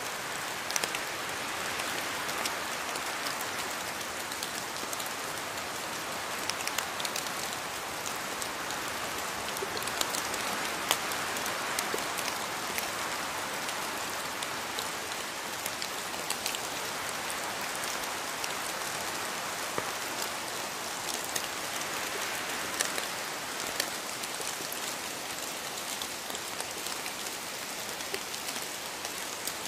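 Steady rain falling, with many individual drops ticking on leaves and other surfaces.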